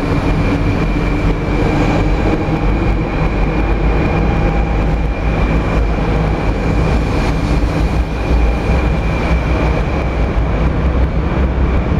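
200 series Shinkansen train departing and picking up speed, its cars running past with a steady low rumble and a steady high whine.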